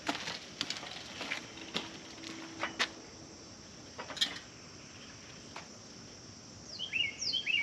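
Scattered light clicks and knocks from handling the QB net's frame and net during assembly, with a bird's quick falling chirps a few times near the end.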